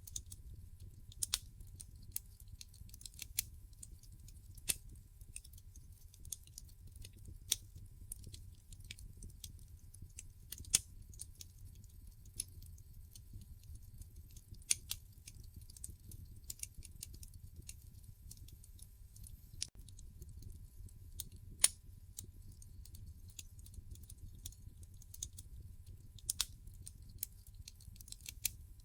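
Wood fire crackling in a fireplace: irregular sharp pops and snaps over a low steady rumble, with one louder snap about two-thirds of the way through.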